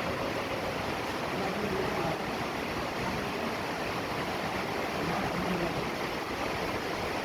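Steady rain falling, an even wash of noise with no breaks.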